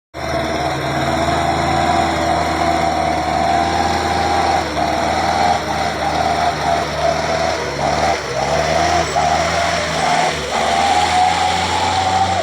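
A small engine running steadily over a broad rushing noise, with its tone breaking off briefly every so often.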